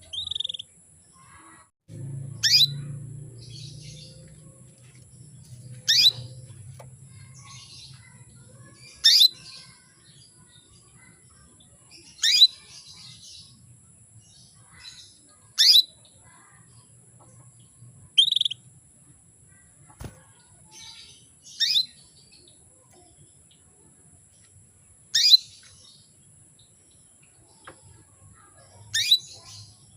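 Female domestic canary calling: single sharp chirps that sweep steeply downward, one about every three seconds, with a couple of shorter, lower chirps between. These are the calls of a hen canary in breeding condition calling to a male.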